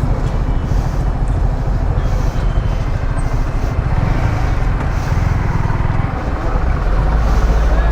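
Yamaha R15 V3's single-cylinder engine running steadily, a continuous low rumble that gets a little louder near the end.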